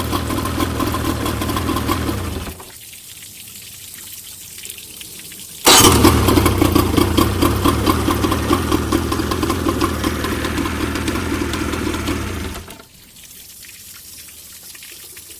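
Evinrude 40 hp outboard motor running steadily under way. It drops to a much quieter stretch about two and a half seconds in, comes back abruptly near six seconds, and drops away again about three seconds before the end.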